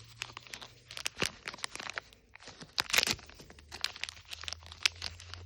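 Thin plastic packaging crinkling and tearing as small toy minis are unwrapped by hand: a rapid, irregular crackle, loudest about three seconds in.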